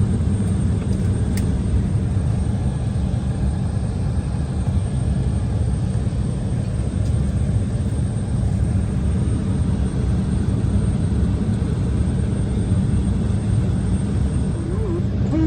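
Steady low rumble of an Embraer E170 airliner's cabin noise, with nothing changing and no rise or fall in pitch.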